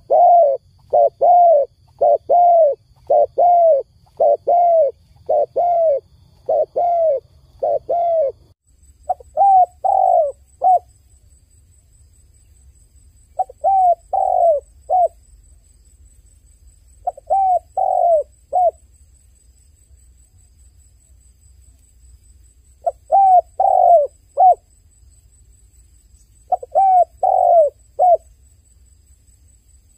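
Dove cooing: a quick, even run of coos, about one and a half a second, for the first eight seconds or so, then short groups of two or three coos every few seconds.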